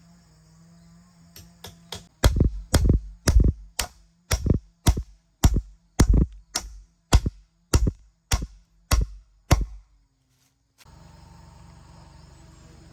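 A steady series of heavy strikes, about two a second: three light taps, then about fourteen hard blows with a tool on a solid surface, stopping suddenly near the end.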